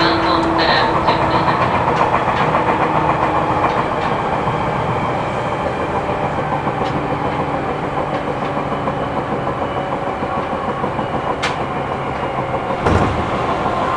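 Interior running sound of a Seibu New 2000 series electric train at speed: a steady rumble of wheels on rail. A single louder clack, a wheel passing a rail joint, comes about 13 seconds in.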